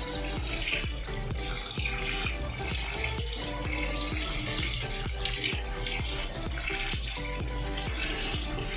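Cold water running onto boiled macaroni in a steel mesh strainer as the pasta is rinsed and turned by hand, a steady splashing hiss. Background music with a steady beat plays over it.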